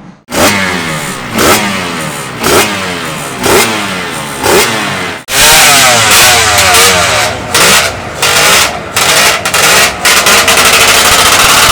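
Two-stroke racing motorcycle engine revved in sharp blips about once a second. After a sudden cut about five seconds in, an engine is held at high revs with quick drops and blips.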